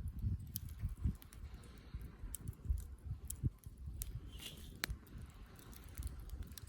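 Campfire burning: wood crackling with scattered sharp pops over an uneven low rumble.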